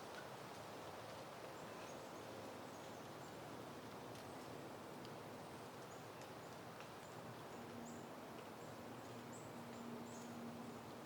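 Soft, faint wind with many short, high bird chirps in the distance, scattered through. A faint steady low hum comes in about halfway through.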